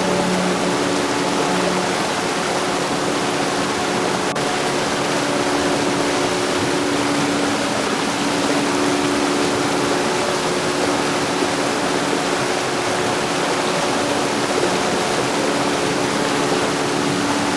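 Heavy rain falling: a steady, even hiss with no breaks, over a faint steady low hum.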